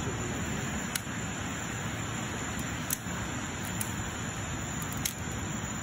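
Steady outdoor rushing noise with a handful of sharp, isolated clicks scattered through it.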